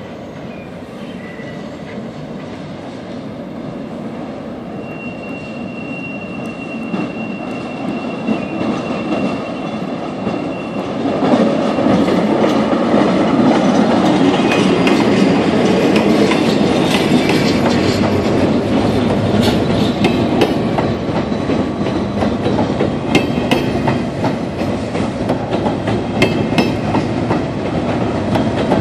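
Freight train working up a steep grade past the listener: a steady rumble that builds over the first ten seconds or so, then stays loud, with the wheels clicking over rail joints in the second half.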